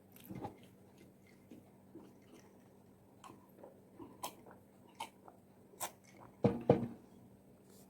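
Close-miked chewing of fried chicken wings: scattered soft crunches and mouth clicks, with two louder low thumps in quick succession about six and a half seconds in.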